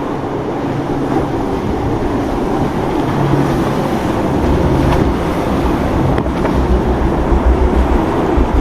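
Boat motor running amid waves and surf, with wind buffeting the microphone; the buffeting grows stronger and gustier in the last couple of seconds.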